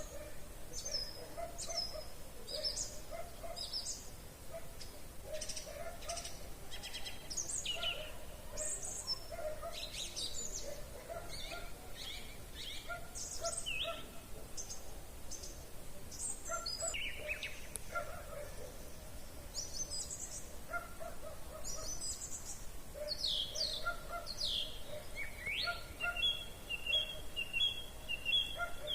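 Evening chorus of several songbirds, overlapping songs made of quick high chirps and whistled phrases, with lower repeated notes beneath them. Near the end one bird gives a fast run of the same note.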